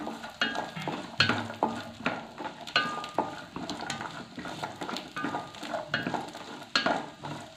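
Coconut pieces sizzling as they fry in ghee in a stainless steel pan, stirred with a wooden spatula that scrapes and knocks irregularly against the metal.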